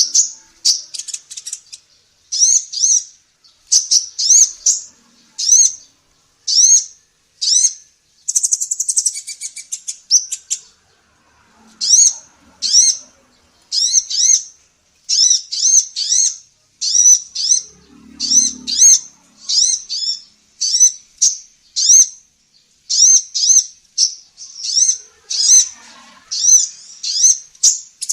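Female kolibri ninja sunbird calling: sharp, high chirps repeated one to two times a second, each a quick curved double note. Rapid buzzy trills break in about a second in and again about eight seconds in.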